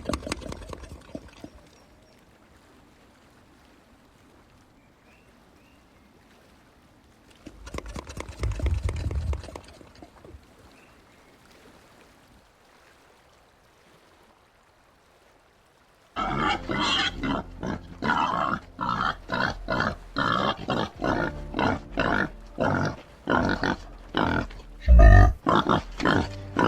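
White-lipped peccaries grunting: after a quiet stretch with a brief burst of rustling noise, a rapid run of short, loud grunting calls starts about 16 seconds in and goes on, two to three a second, with one especially loud call near the end.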